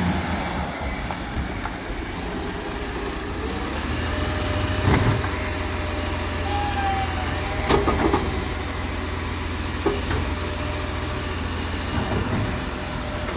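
Rubbish collection truck's engine running steadily at low pitch, with a few sharp clunks and knocks over the middle of the stretch and a brief high tone partway through.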